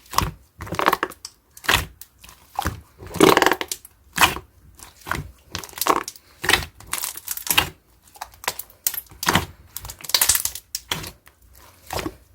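Slime being squished, pressed and pulled by hand, giving irregular crackling, sticky pops and squelches about once or twice a second.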